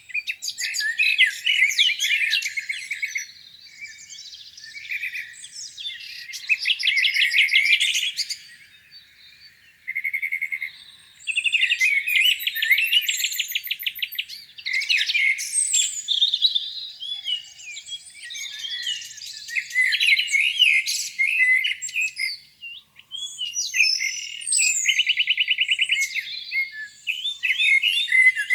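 A chorus of songbirds singing over one another: varied chirps and whistled phrases, with several fast, rattling trills. There is a brief lull a few seconds in and another around the middle.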